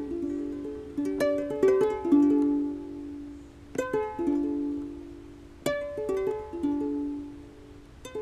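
Solo plucked string instrument playing a slow melody. Small clusters of plucked notes are each left to ring and fade before the next group, with single notes struck near the middle of the phrase.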